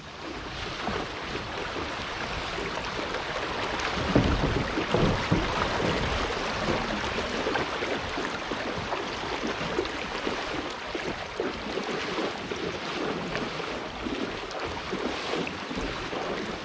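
Rushing, splashing creek water, a steady noise that swells briefly about four seconds in.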